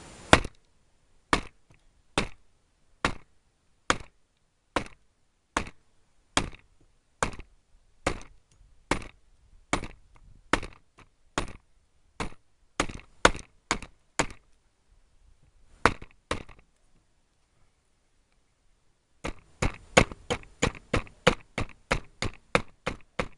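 Small, lightweight axe chopping into wood: steady single blows a little under a second apart, a short pause, then a quicker run of chops at about three a second near the end.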